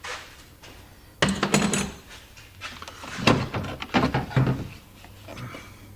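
Plastic trim fastener on a Jeep Grand Cherokee's rear hatch being worked back and forth until it comes free, making irregular creaks, scrapes and knocks in two spells.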